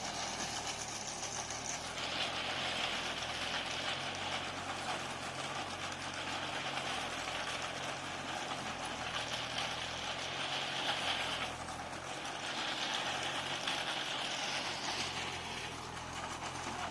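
Tractor diesel engine running steadily, with a high-pitched hiss or whine coming in and out three times over it.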